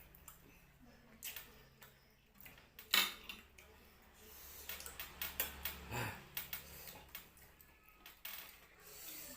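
Spoon or other cutlery clinking and scraping on a plate of rice and fish-head curry: scattered light clicks, with a sharper clink about three seconds in and a busier run of clicks in the middle.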